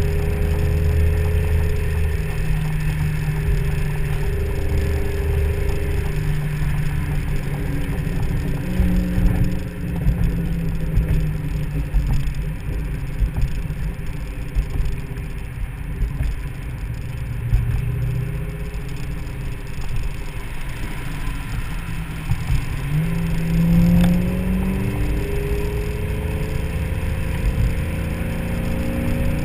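2003 SVT Mustang Cobra's supercharged 4.6-litre V8 running at highway speed with the top down, its note mixed with wind noise over the open cabin. Its pitch shifts up and down, then climbs as the car accelerates near the end.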